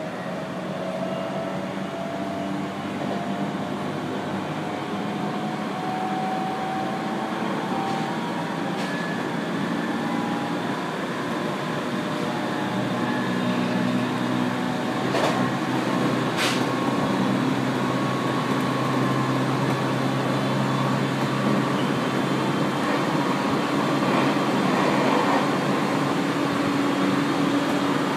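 701-series electric train running, heard from inside the car: wheels rumbling on the rails, growing slowly louder, with a thin motor whine rising in pitch over the first ten seconds as the train picks up speed. Two sharp clacks about halfway through.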